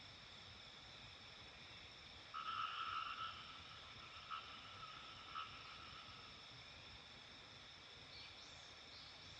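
Mountain-village dawn chorus: steady high-pitched calling of small animals. A louder call starts about two seconds in and lasts about a second, followed by two short repeats. Faint short bird chirps come near the end.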